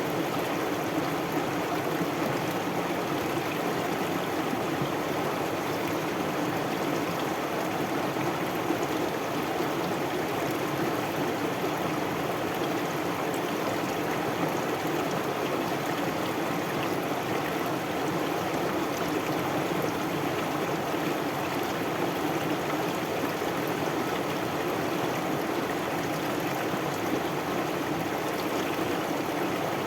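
Stream water flowing, a steady, even rush without breaks.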